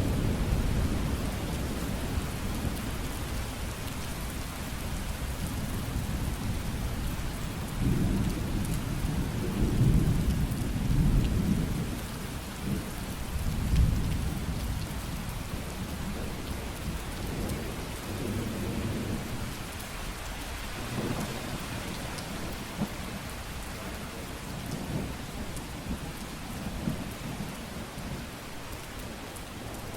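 Steady rainfall hissing, with low rolling rumbles of thunder that swell and fade several times, loudest a third of the way in.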